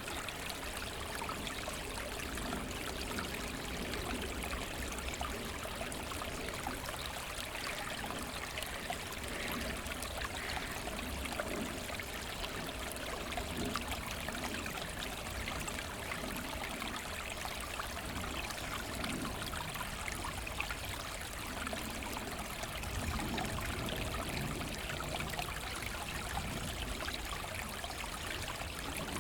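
Forest stream running and trickling over stones, a steady, unbroken babble of water.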